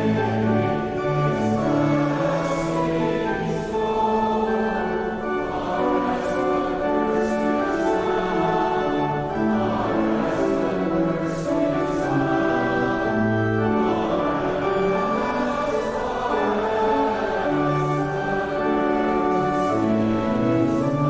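A congregation singing a hymn together with sustained instrumental accompaniment, the notes held and moving in steps.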